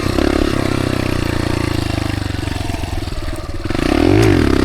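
Dirt bike engine running while riding. The note eases off about two and a half seconds in, then comes back up with a quick shift in pitch near the end.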